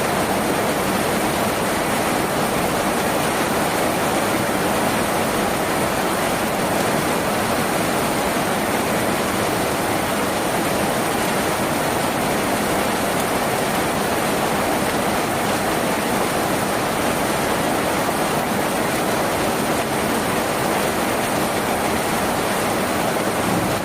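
Rain falling on a tin roof: a steady, even hiss of countless drops with no let-up.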